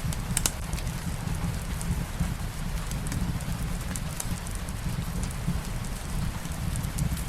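Steady rain ambience mixed with a fireplace: an even rushing patter over a low rumble, with scattered sharp crackles and pops from burning wood.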